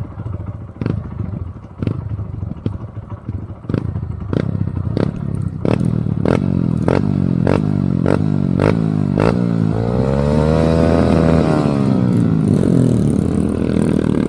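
Motorcycle engine running on an off-road ride, with sharp regular knocks that come about once a second and then quicken as the engine picks up. Around ten seconds in the engine revs up and falls back.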